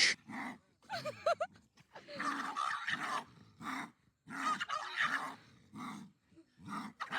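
A French bulldog and a tiger cub growling and snarling at each other in a string of short growls with brief pauses between. About a second in there is a short wavering cry.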